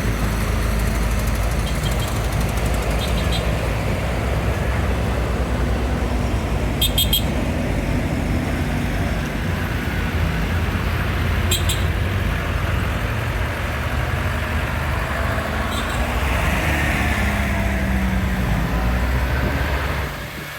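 Tractor engines running in a steady low rumble as a procession passes, with a couple of brief high clicks.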